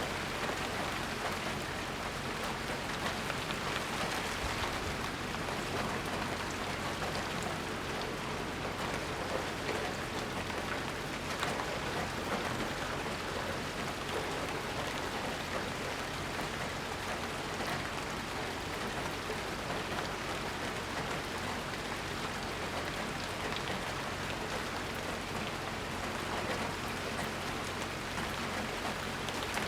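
Steady rainfall, with fine drops pattering on surfaces. The rain keeps an even intensity, with no thunder.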